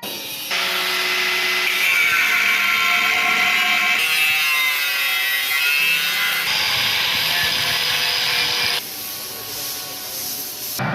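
Power tools cutting and grinding an aluminium alloy car rim, a harsh rasping with steady high-pitched ringing tones. The sound changes abruptly every few seconds as one short stretch of work gives way to the next.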